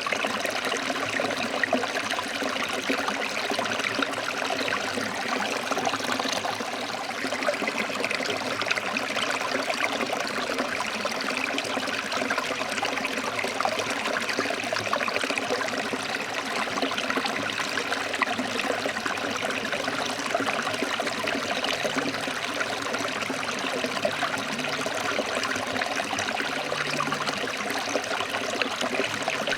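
Forest stream flowing over rocks: a steady, unbroken rush of water with fine splashing and burbling.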